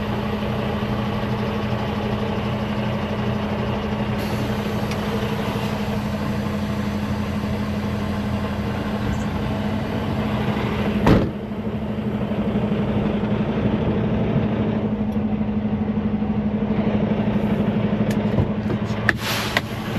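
Semi-truck diesel engine idling steadily, with one loud sharp bang about halfway through and a few small clicks near the end, while the trailer's tandem axles are being slid.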